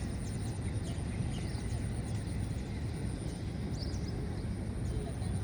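Outdoor ambience: a steady low rumble with a thin, steady high-pitched tone over it, and a few faint bird chirps about four seconds in.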